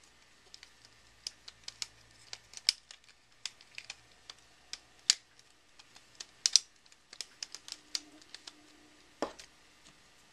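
Rubik's Snake's plastic wedge segments being twisted and snapped into position: an irregular run of sharp clicks, several close together, with a duller knock about nine seconds in.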